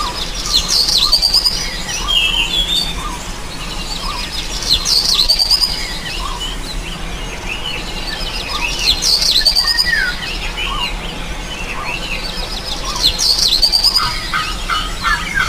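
Birdsong: a bird repeats a short, high, sweeping phrase about every four seconds, with scattered chirps in between. Near the end a run of lower notes starts, about four a second.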